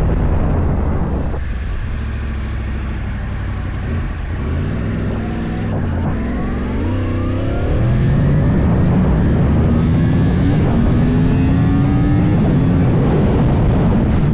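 Yamaha YZF-R1 crossplane inline-four running through an Akrapovič full exhaust, heard onboard. It drops back off throttle about a second in, then rises in pitch as the bike accelerates from about halfway, getting louder with wind rushing over the microphone.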